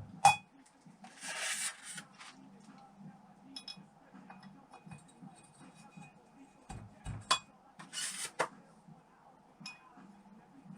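Hard metal parts clinking and knocking now and then on a workbench, with two short hissing bursts, one early and one near the end.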